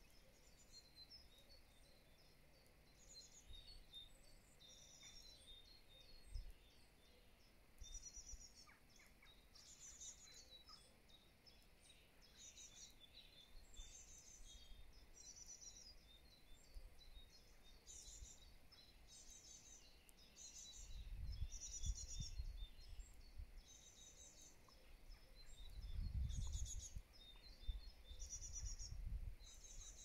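Faint songbirds singing short, high, trilled phrases that repeat every second or two. Twice in the second half a low rumble swells and fades.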